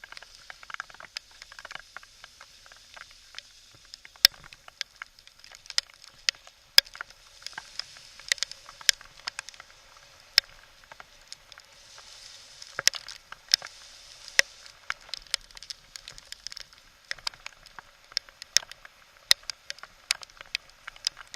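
Mountain bike descending a rough trail in a heavy downpour: irregular sharp taps and rattles, several a second, over a steady hiss.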